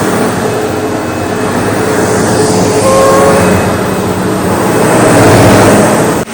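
SEBO Automatic X4 bagged upright vacuum cleaner running continuously, its loudness swelling and easing a couple of times as it works, with a sudden brief drop in sound just before the end.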